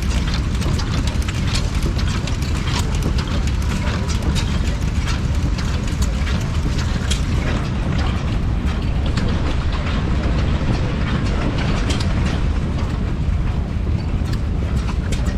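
Vintage stationary engine running steadily: a constant low drone with many sharp mechanical clicks throughout.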